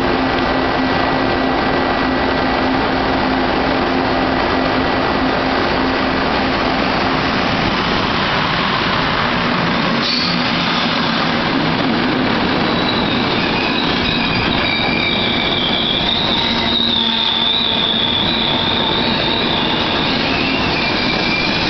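Electric locomotive and a long rake of passenger coaches running past along the platform: a loud steady rumble of wheels on rail, with a high metallic squeal joining in about two-thirds of the way through.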